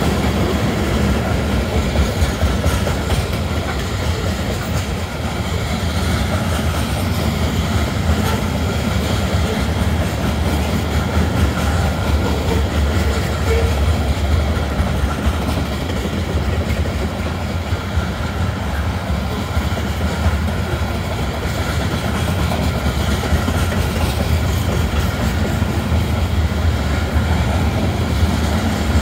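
Covered hopper cars of a freight train rolling past: a steady rumble of steel wheels on rail, with rapid clicking throughout.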